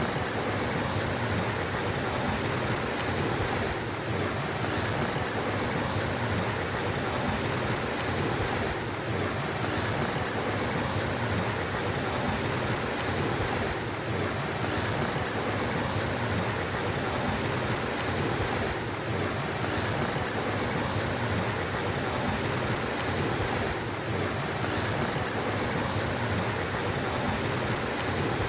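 Steady, dense rush of flowing water, with a slight dip in level about every five seconds.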